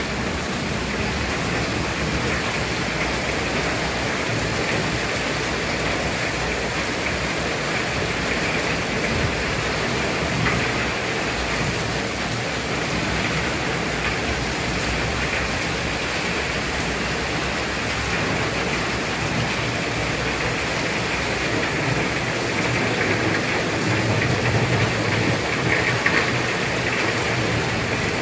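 Heavy rain pouring down steadily in a strong wind, as a dense, even hiss. It grows a little louder and deeper in the last few seconds as the wind picks up.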